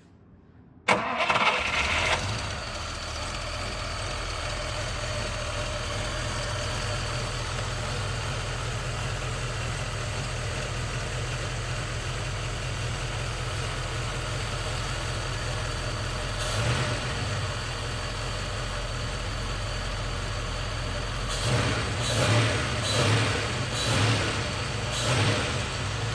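BMW 503's 3.2-litre V8 starting: it cranks briefly and catches about a second in, then idles steadily. Later the throttle is blipped once, and near the end the engine is revved about five times in quick succession.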